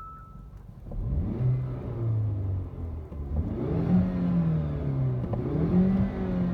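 Hyundai i30 N Performance's 2.0-litre turbocharged four-cylinder engine heard through its exhaust: it comes in about a second in with a quick rise in revs, settles, then is revved up twice and falls back each time.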